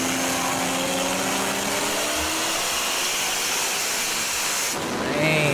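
Racing cars at full throttle at highway speed: engine notes climbing slowly in pitch under a loud rush of wind and road noise, which cuts off abruptly near the end.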